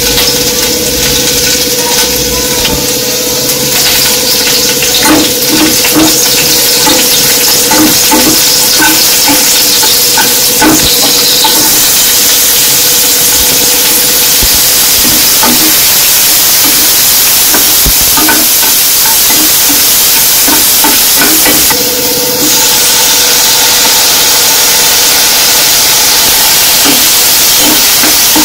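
Chopped onion, tomato and green chilli sizzling in hot oil in a non-stick kadhai, with a steady loud sizzle. A steel spatula stirs them, scraping and tapping against the pan.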